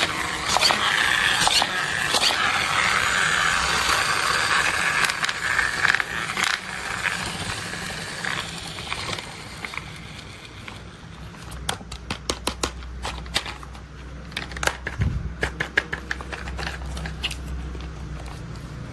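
Toy construction vehicles and their packaging being handled. A scraping, rustling noise runs for the first several seconds, then gives way to a string of sharp clicks, some in quick clusters, over a low hum.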